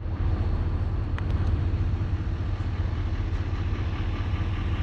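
Steady road noise of a car being driven, a constant low rumble with a fainter hiss above it.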